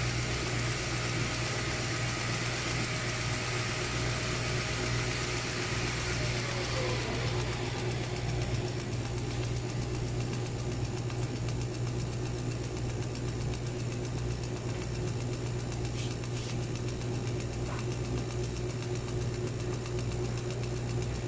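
CNC router machine running with a steady hum; a higher hiss fades away about eight seconds in.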